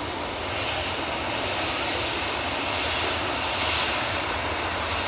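Jet airliner's engines running, a steady rushing noise with a low rumble beneath and no change in pitch.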